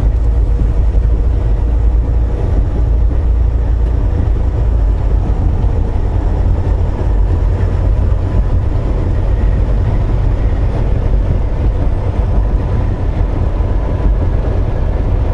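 Steady low rumble of a Volvo VNL860 semi truck's running diesel engine, heard inside the cab, even and unbroken throughout.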